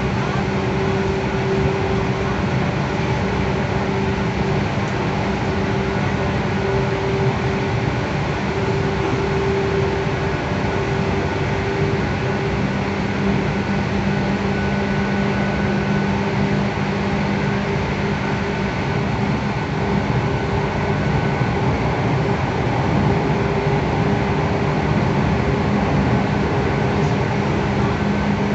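Running sound heard inside a JR West 117 series electric train car: steady noise of wheels on the rails with a low traction-motor hum, the train holding an even speed.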